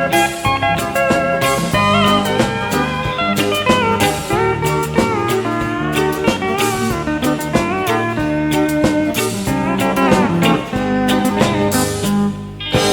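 Live country band playing an instrumental passage: drums and bass under a guitar lead with bending notes. Near the end the drumming stops and a held chord rings on.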